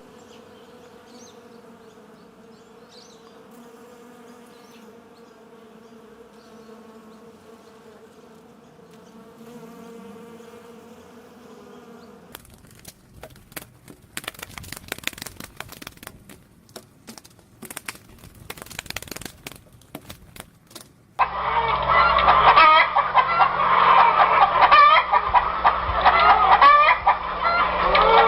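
A quiet steady hum with evenly spaced overtones, then a stretch of irregular clicking and crackling, then, about three-quarters of the way through, a flock of chickens clucking loudly and continuously.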